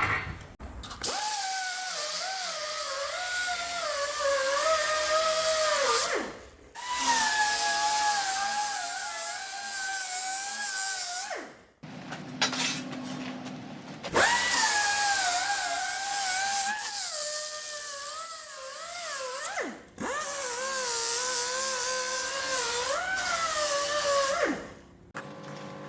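Angle grinder grinding steel in four runs of about five seconds each, with a hissing scrape and a whine that wavers under load. Each run ends as the trigger is released and the motor spins down with a falling pitch.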